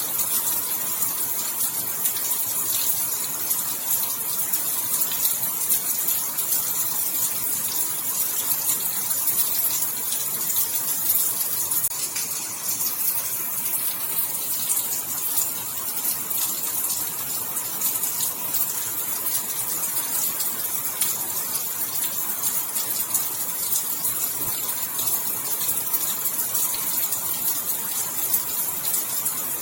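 Steady rainfall: a dense, even hiss of rain with fine pattering ticks, unchanging throughout.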